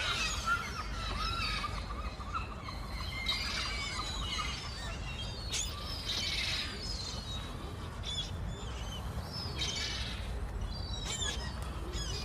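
Many small birds chirping and calling in short, overlapping notes, with a few sharp clicks, over a steady low outdoor rumble.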